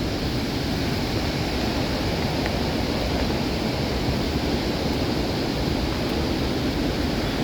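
Fast-flowing river water rushing, a steady unbroken noise.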